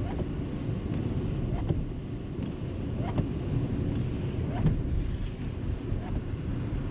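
Steady low rumble of a car driving along a plowed, snowy road: engine and tyre noise.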